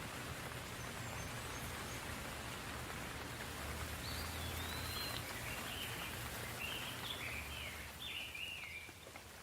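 Steady soft rain falling, an even hiss, with a low rumble underneath. From about four seconds in, a bird sings a run of short, sliding phrases over the rain.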